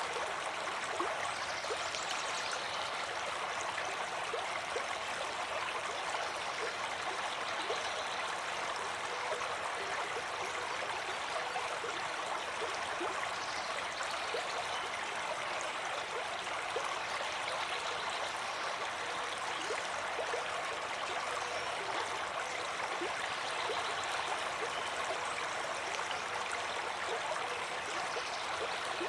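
Water flowing steadily over rocks in a stream, with a constant rushing and small bubbling splashes.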